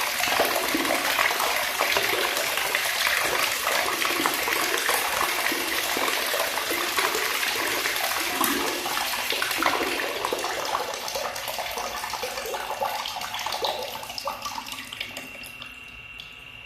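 Cool water running from a tap and splashing steadily, dying down over the last few seconds.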